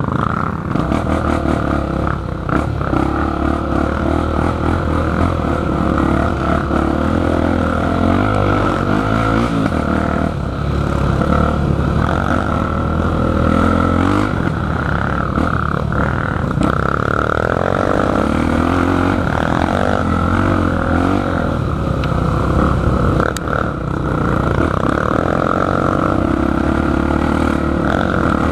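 Motocross dirt bike engine running under way, its pitch rising and falling with the throttle.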